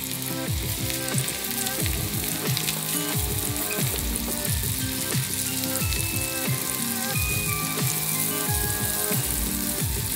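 Batter-coated chicken pieces deep-frying in hot oil in a pot: a dense, continuous crackling sizzle. Background music with a regular bass line plays under it.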